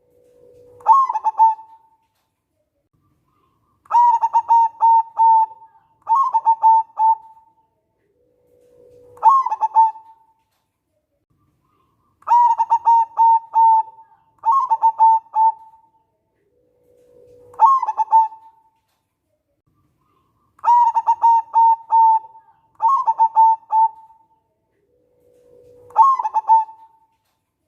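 Local zebra dove (perkutut) repeatedly singing its cooing song: phrases of quick staccato coo notes, roughly one every few seconds, some opened by a lower drawn-out note that jumps up into the coos.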